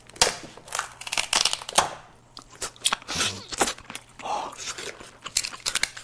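King crab leg shells being cracked and torn apart, a string of irregular sharp crunches and snaps, with chewing, close to the microphone.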